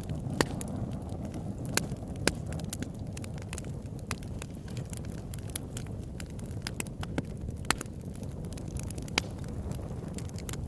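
Campfire burning, with sharp crackles and pops of burning wood at irregular intervals over a steady low rush of flame.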